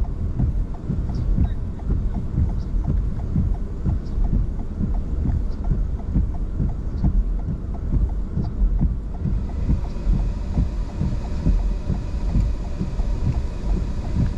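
Heavy low rumble of wind buffeting the microphone, with a fast, uneven run of low thumps and a faint steady hum. Faint high ticks come about every second and a half and stop about nine seconds in.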